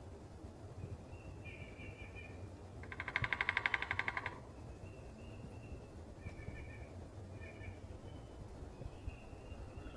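Downy woodpecker making a rapid burst of evenly spaced pulses, about fifteen a second for roughly a second and a half, a few seconds in. Short, thin bird calls come and go around it.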